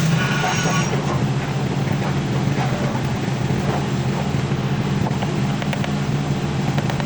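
A machine's engine running steadily, with a few light knocks over it.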